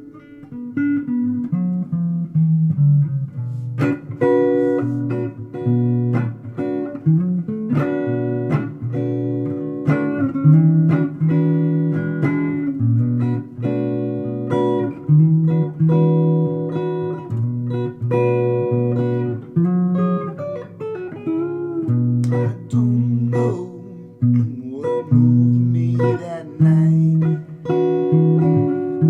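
Guitar improvising a blues line, picked single notes mixed with sharply struck chords over a steady low bass note.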